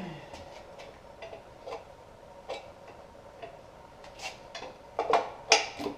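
Scattered, irregular metallic clicks and clinks of hand tools working on a partly dismantled engine, with a few louder clanks near the end.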